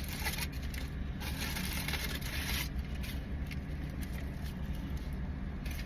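Rustling and scraping of takeout packaging being opened, strongest in the first half, over a steady low hum.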